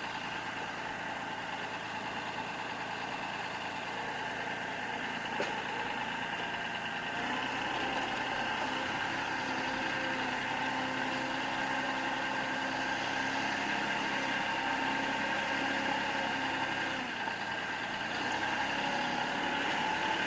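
Kubota L3560 tractor's diesel engine running steadily; its note shifts about seven seconds in and settles back near the end.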